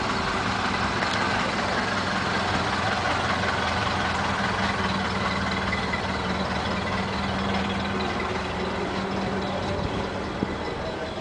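A motor vehicle's engine idling steadily, with a low hum that fades away about nine to ten seconds in.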